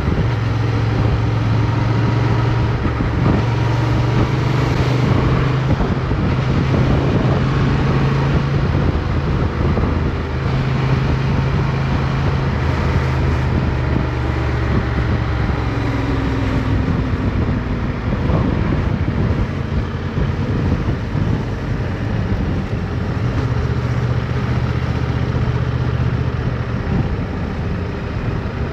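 Motorcycle engine running while riding, heard over rushing wind. The engine note eases off briefly about a third of the way in and again for several seconds past the middle, then picks up again, as the throttle is rolled off and back on through the bends.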